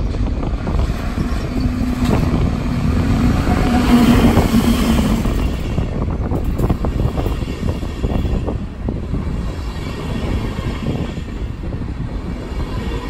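Electric-hauled passenger train pulling into the station past the platform: the red SBB electric locomotive goes by with a humming tone, loudest about four seconds in, then its intercity coaches roll past with a steady rumble and clacking wheels.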